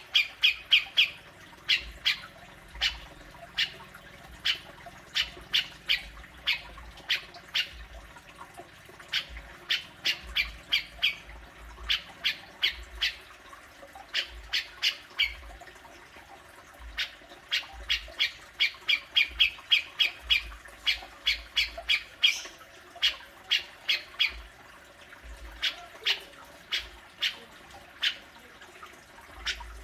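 Cucak jenggot (grey-cheeked bulbul) giving its harsh "besetan" scolding calls: short, sharp notes repeated in quick runs of several at a time, with brief pauses between the runs.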